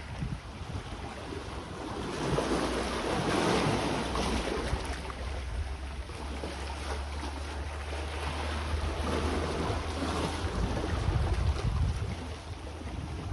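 Sea waves washing ashore, swelling about two seconds in and again near ten seconds, with wind rumbling on the microphone.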